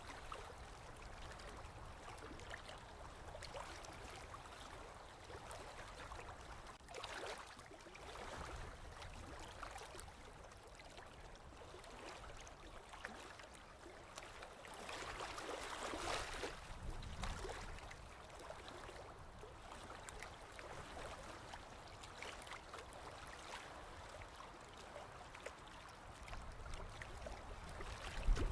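Gentle sea waves washing in and drawing back, with a steady hiss of water that swells into a fuller wash about a quarter of the way in and again around the middle.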